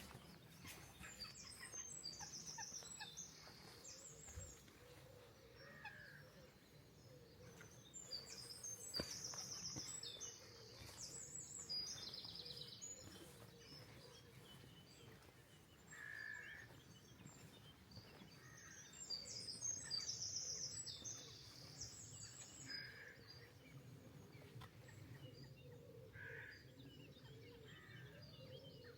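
A songbird singing the same short, high phrase three times, about ten seconds apart, with brief lower calls between.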